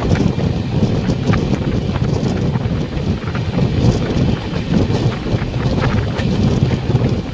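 Passenger train running on the track: a steady low rumble of wheels on rails, with many scattered sharp clicks and rattles.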